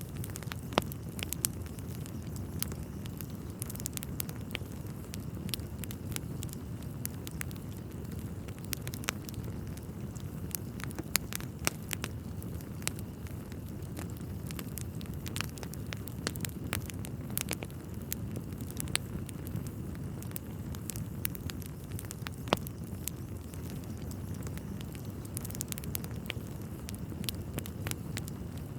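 Wood fire burning in a fireplace: irregular sharp crackles and pops over a steady low rush of burning logs.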